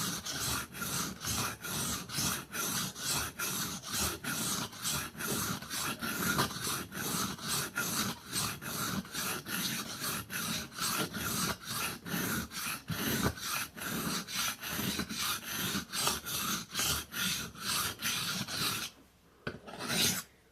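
Knife blade stroked back and forth on a wet whetstone: an even rasping scrape, about three strokes a second. The strokes stop about a second before the end, and a few separate scrapes follow.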